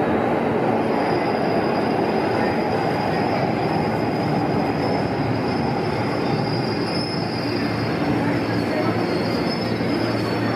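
Electric train running along the platform track, a steady rumble of wheels on rail. A thin, high wheel squeal comes in about a second in and holds on.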